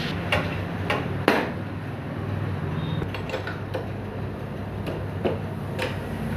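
Several sharp metallic clinks and knocks at irregular intervals, as from tools and metal parts being handled, over a steady low hum.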